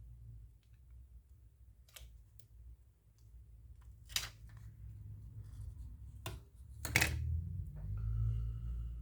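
A few sharp clicks and taps of small phone parts and tools being handled on a desk, the loudest about seven seconds in, over a low steady hum. Near the end a faint steady tone comes in.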